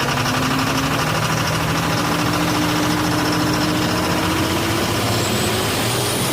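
Vehicle engine running steadily at the exhaust, its pitch creeping up slightly; a faint high whine rises near the end.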